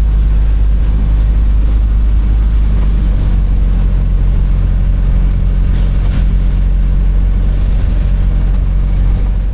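Mitsubishi Delica 4WD camper van on the move: a steady, low engine and road drone.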